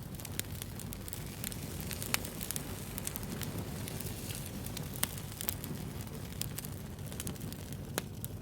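Wood fire crackling: a steady low rumble of flames under dense small pops and snaps, with a few louder sharp pops scattered through.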